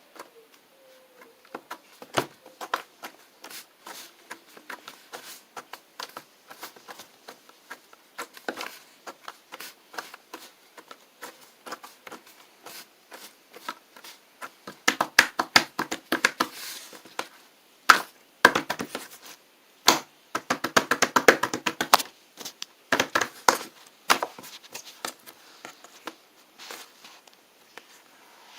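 Hands handling small objects at close range: irregular clicks, taps and crinkly rustles, in louder, busier bursts from about halfway through.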